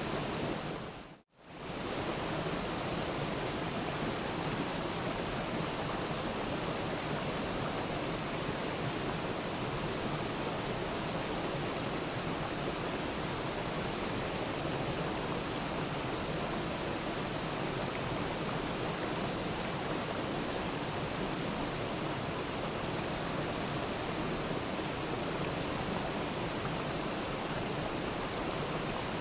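Waterfall: a steady rush of falling water, an even hiss across deep and high tones. It cuts out for a split second about a second in, then resumes unchanged.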